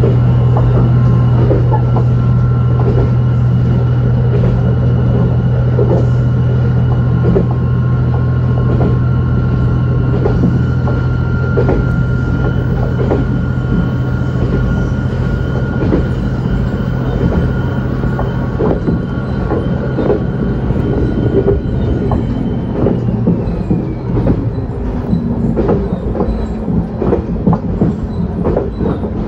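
Moka Railway diesel railcar running along the line, heard from inside: a steady low engine drone with a high whine over it and the repeated clicking of the wheels over rail joints. About 22 s in the drone and the whine fall away and the whine slides down in pitch, leaving a lower hum under more prominent wheel clicks.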